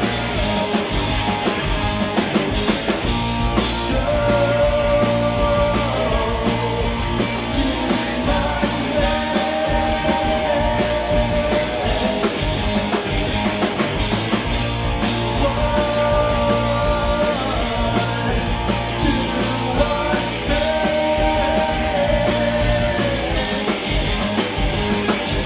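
Live punk-leaning rock band playing loud and steady: distorted electric guitars over bass and drum kit, with a lead line repeating in phrases every few seconds.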